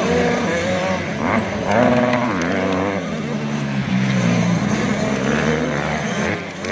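Several 85cc two-stroke motocross bikes revving, their engine pitch repeatedly climbing and dropping as they are throttled on and off.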